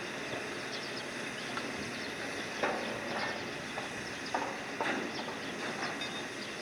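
Steady wind and sea noise with a handful of sharp metallic clanks and knocks, the loudest about halfway through, from crane cargo-handling on a ship's deck.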